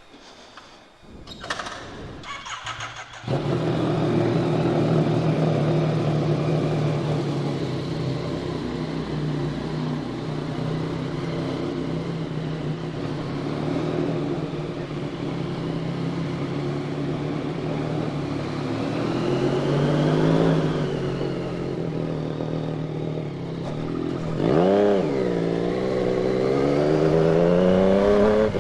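Yamaha MT-09's three-cylinder engine cranked over and catching about three seconds in, then idling steadily. Near the end it gives one quick rev, then its pitch climbs steadily.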